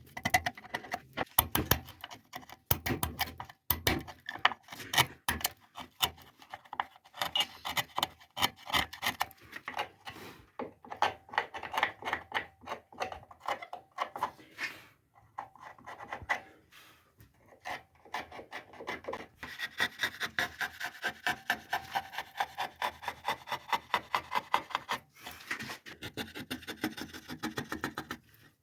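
A hand tool scraping walnut wood in quick, repeated strokes while shaping a carved figure, with a short lull about fifteen seconds in.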